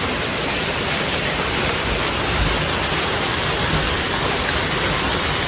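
Storm downpour pelting down in a loud, steady, dense hiss.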